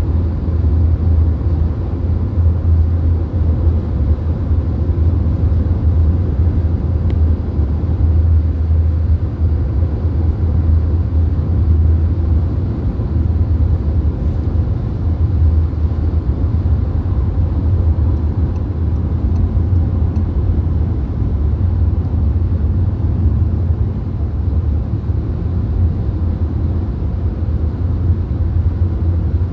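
Steady low road rumble inside a VW Golf cruising on the motorway: tyre roar and engine drone with wind noise over it.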